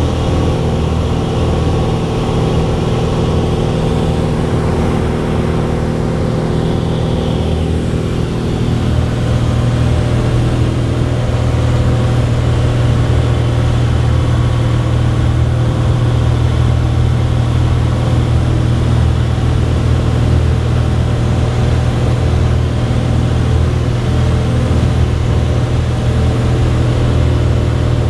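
Cessna 182's piston engine and propeller running steadily; about eight or nine seconds in the sound shifts and grows a little louder, a change in engine power, then holds steady.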